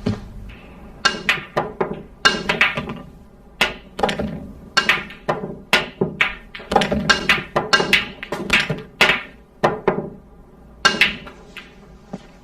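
Billiard balls clacking against one another and the cue striking: many sharp knocks at irregular intervals, two or three a second, each with a short ring.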